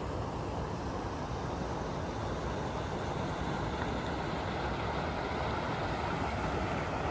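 Steady rush of waterfall water, an even roar without breaks.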